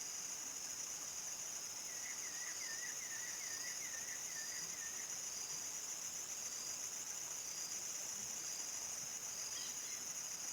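Crickets chirping in a steady, high-pitched chorus. A short warbling call from another animal rises and falls about two seconds in and lasts about three seconds.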